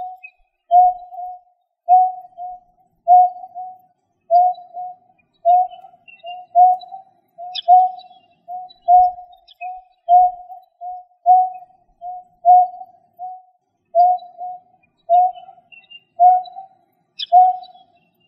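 A bird's low call repeated steadily, about once every 1.2 seconds, each call a strong note followed by a shorter, softer one; a few faint high chirps sound behind it.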